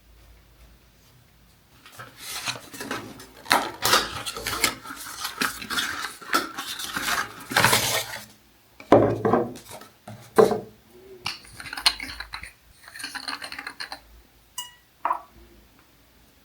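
Small hard containers clinking and rattling as they are handled and set down: a dense clatter for several seconds, then a few separate knocks and a short ringing clink near the end.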